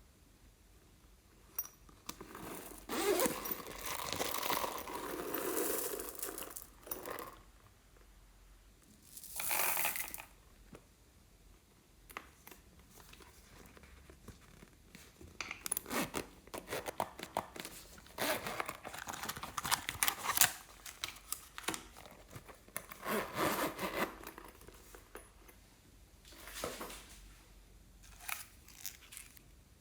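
Hands crinkling and tearing soft material in several spells, with runs of quick sharp crackles and clicks in between.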